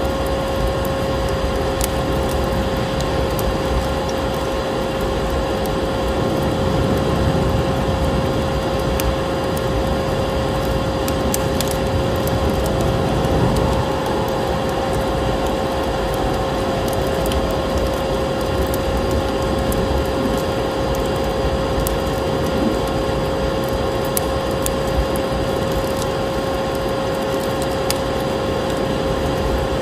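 Layered ambience: a vacuum cleaner running with a steady, constant hum over a rushing snowstorm wind, with a log fire crackling in scattered sharp pops.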